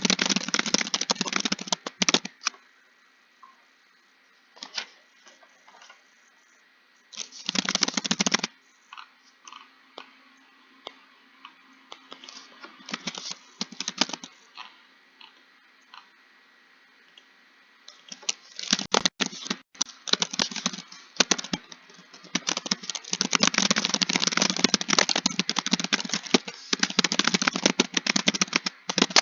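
Typing on a keyboard in bursts: fast runs of key clicks broken by pauses with only a few scattered keystrokes, then steady continuous typing through the last ten seconds or so.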